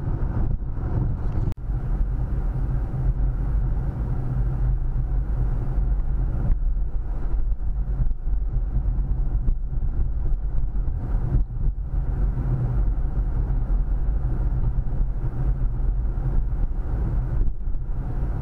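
Steady road and engine rumble inside a moving car, with a momentary drop about a second and a half in.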